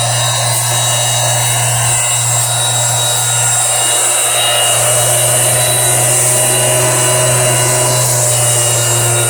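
Small engine of a motorized orchard sprayer running steadily at constant speed.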